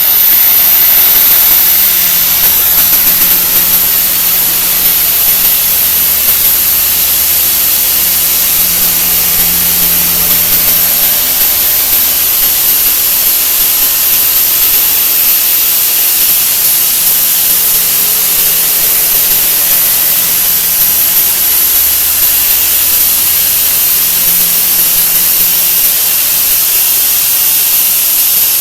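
A 'wha wha' sound effect sped up so far that it no longer sounds like a tune: a loud, steady hiss with a high-pitched whine on top.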